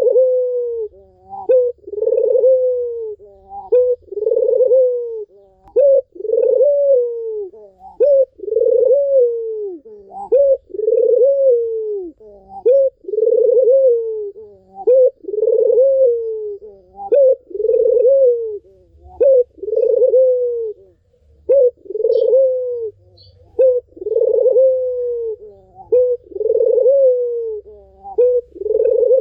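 Ringneck dove (puter) cooing over and over, about one low coo a second with short notes in between.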